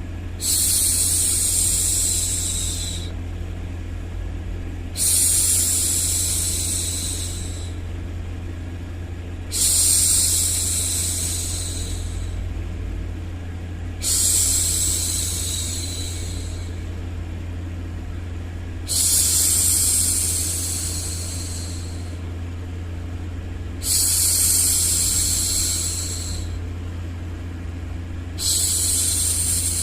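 A woman's voice shushing "shhh" to soothe a baby, seven long hushes about every four and a half seconds, each starting sharply and tapering away. Under them runs a steady low rumbling background noise.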